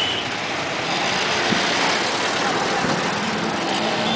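Jet airliner's engines at takeoff thrust: a loud, steady rushing roar.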